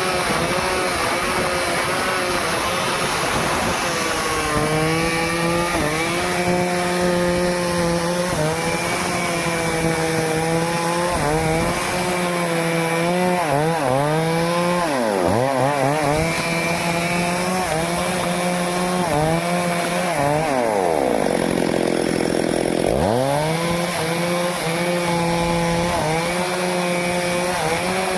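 Stihl chainsaw running and cutting teak wood. Its engine note drops sharply and picks back up about halfway through, then sags lower for a couple of seconds and comes back up again near the three-quarter mark.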